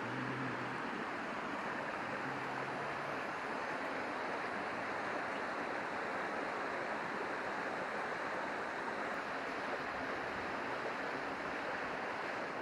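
A river rushing steadily close by, an unbroken noise with no pauses.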